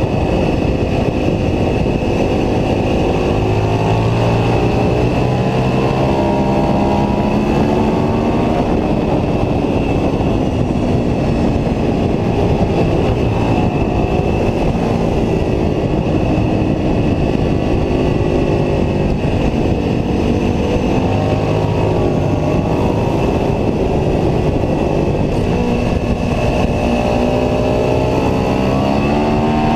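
Ducati 749S's L-twin engine at speed on a racetrack, its pitch climbing as it accelerates through the gears and dropping on the downshifts, again and again, over a steady rush of wind noise.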